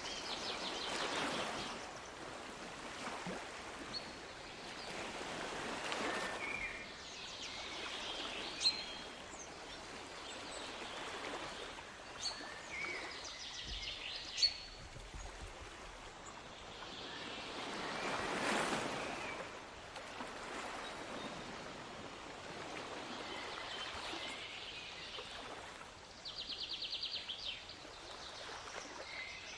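Sea waves washing ashore in slow swells every few seconds, with small birds chirping over them and a fast trill near the end.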